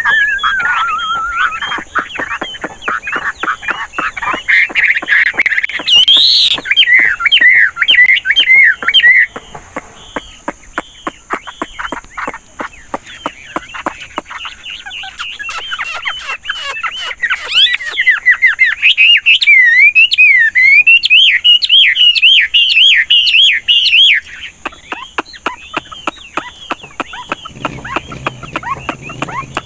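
Chinese hwamei singing long, rapidly changing phrases of rich whistles and trills, switching pattern constantly, with a pause in the middle. Frequent sharp clicks run through the song.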